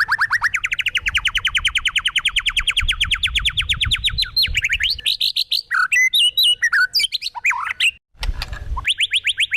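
Bird song: a long, fast trill of repeated notes, about ten a second, climbing steadily in pitch, breaking into a jumble of varied warbling notes. After a brief gap about eight seconds in, the rising trill starts again near the end.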